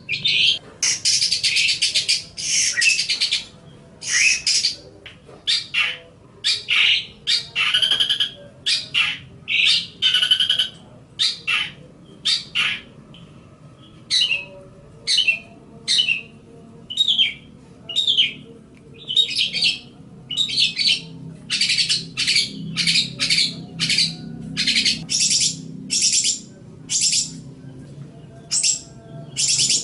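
Long-tailed shrike (cendet) singing: a long run of short, high notes and phrases in quick succession, about one or two a second with brief gaps, over a faint low hum.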